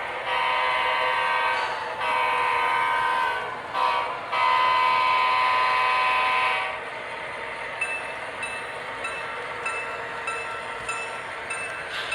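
Model diesel locomotive's Blunami sound decoder sounding its horn through the model's small speaker in the grade-crossing pattern: long, long, short, long. The horn then stops, leaving the diesel engine sound running with light regular clicks about every half second.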